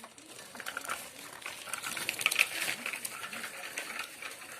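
Dense, irregular crackling and clicking from food cooking in a pan, busiest about two seconds in.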